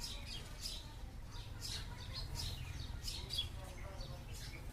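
Small birds chirping: quick, high, short calls that sweep down in pitch, several a second, over a steady low rumble.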